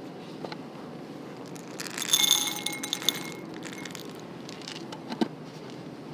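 A short rattle of clinks with a bright ringing tone, about two seconds in, over a steady low rushing noise, with a couple of single light knocks later.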